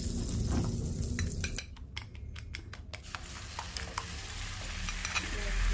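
A utensil clicking rapidly against a dish, about six strokes a second, followed by a frying sizzle that grows louder: an omelette being cooked.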